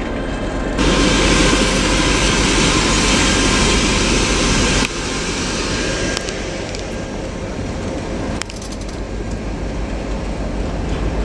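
Passenger train coaches rolling past, a steady rumble of steel wheels on the rails. The sound changes abruptly about a second in, about five seconds in and about eight seconds in.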